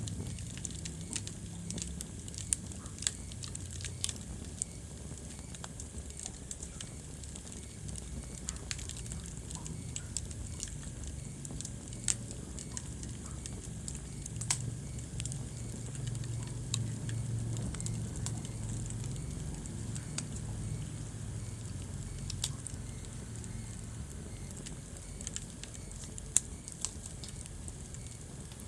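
Wood fire burning in a fireplace, crackling with irregular sharp pops over a steady low rumble of flames. A few pops stand out louder than the rest.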